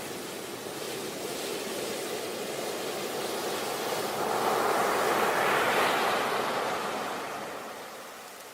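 Sea waves breaking on a beach: a steady wash that swells as a wave comes in about halfway through, then fades as it draws back.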